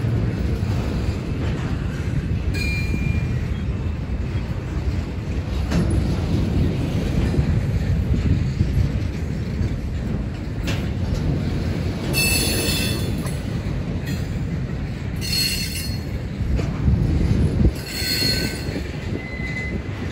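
Double-stack intermodal freight train's well cars rolling past with a steady low rumble of steel wheels on rail. Three brief bursts of high wheel squeal come in the second half.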